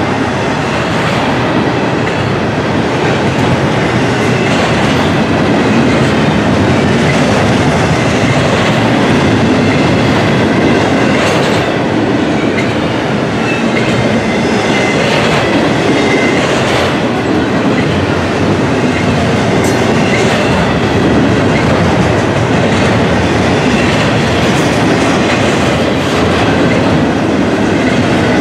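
Double-stack container well cars rolling past close by: steel wheels on rail make a steady loud rumble, with clickety-clack over rail joints and occasional sharper clanks.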